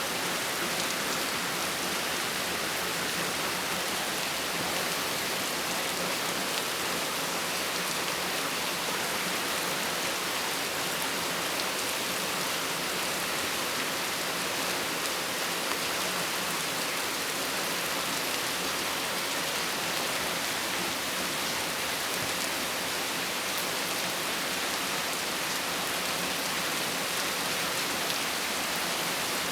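Rain falling steadily in a storm, a constant even hiss that does not let up.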